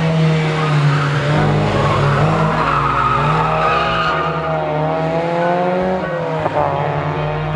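A car being driven sideways: tyres squealing in a long wavering screech over the steady drone of its engine.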